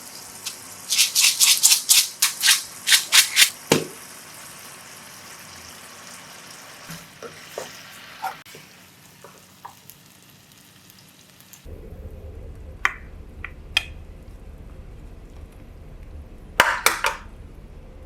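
Food frying in a pan while it is stirred: a quick run of about a dozen loud scraping strokes in the first few seconds, then quieter sizzling with scattered clicks. A low hum sets in past the middle, with two sharp clicks and a short loud scraping cluster near the end.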